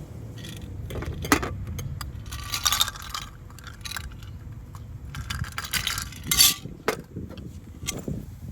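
Metallic clinking and rattling of handled gear, in scattered clicks and short rattles, loudest about a second in and again near the middle, over a low steady rumble.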